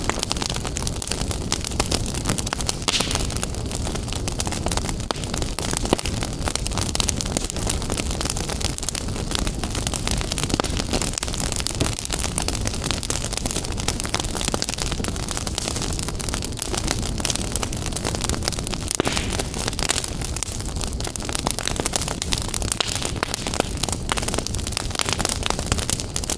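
Wood fire crackling in a fireplace: a constant stream of small pops and snaps over a steady hiss and low rumble of burning.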